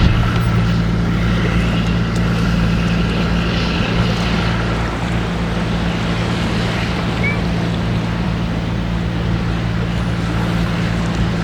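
An engine running steadily with a low, even hum, with wind rushing over it.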